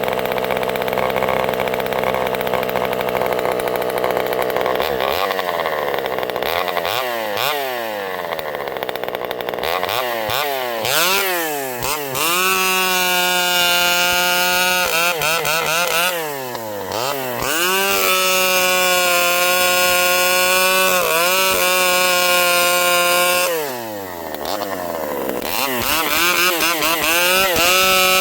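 Vintage Pioneer two-stroke chainsaw running: steady at first, then revved up and down several times, then held at high speed for several seconds at a time, dropping back briefly twice before revving up again near the end.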